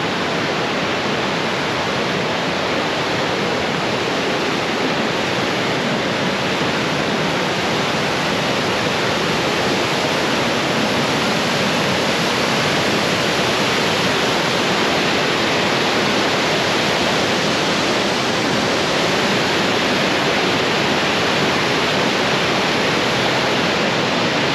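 Waterfall rushing: loud, steady noise of falling water that does not change.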